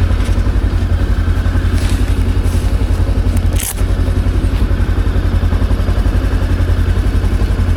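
Motorcycle engine running at a steady, even beat, with no revving, and a single short click about three and a half seconds in.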